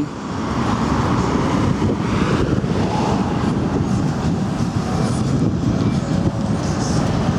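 Motorcycle's S&S 111 cubic-inch V-twin running steadily through a 2-into-1 header exhaust, a loud, even low rumble.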